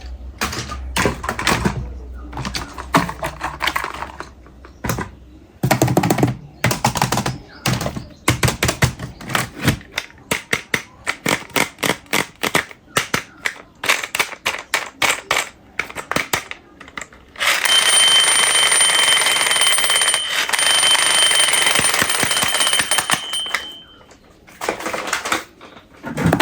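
Plastic toys rattling and clicking in quick, irregular runs as they are handled. Then a battery-operated toy runs for about six seconds with a steady noisy whir and a thin high whine, and stops.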